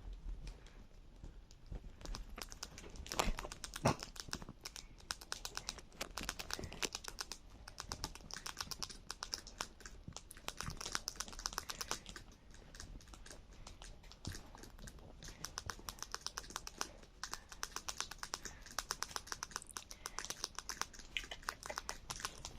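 Pet rat chewing and gnawing on pasta: a rapid, continuous run of tiny crunching clicks that picks up about two seconds in, with a few louder clicks a second or two later.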